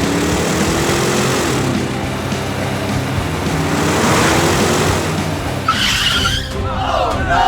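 Cartoon vehicle sound effects over background music: an engine revving with a rising pitch, a dense rushing noise, then several quick falling whistling glides near the end.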